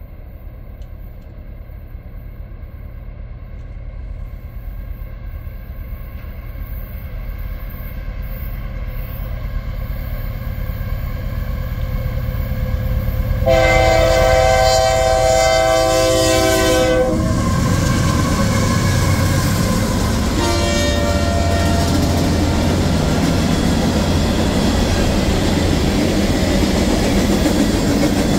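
CSX freight train, led by a grey Canadian Pacific Kansas City locomotive, approaching with a rumble that grows steadily louder; the locomotive's air horn blows one long chord about 13 seconds in and a short one about 20 seconds in. The locomotives and the string of tank cars and hoppers then pass close by, rumbling and clattering over the rails.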